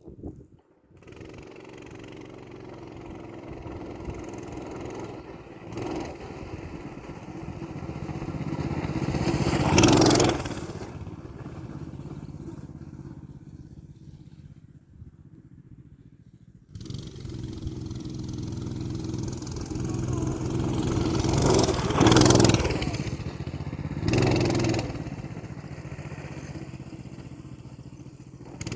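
Coleman BT200X minibike's single-cylinder four-stroke engine running as the bike is ridden, swelling to a loud close pass about ten seconds in, then fading away. After a lull it cuts back in suddenly and swells to two loud peaks near the end.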